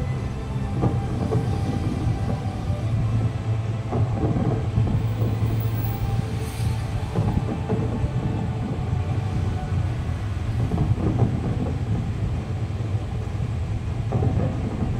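Fireworks display: a continuous low rumble of aerial shells bursting, with heavier booms every few seconds.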